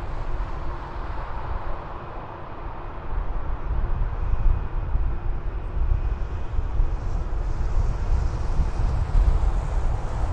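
Jet airliner engines rumbling, growing louder about three seconds in, with a faint high whine over the low rumble.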